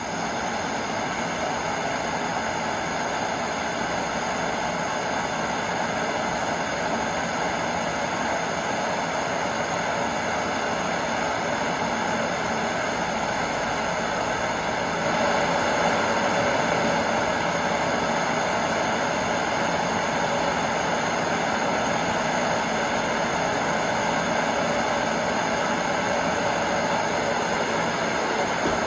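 Gas torch burning with a steady roaring hiss as it heats small nails for forging; it gets a little louder about halfway through.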